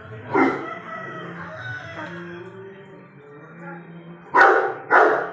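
Dog barking over background music: one short bark about half a second in, then three quick barks near the end.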